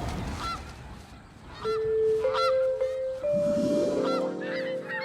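Cartoon soundtrack: short honk-like calls, then long held notes from about a second and a half in, with more short calls over them near the end.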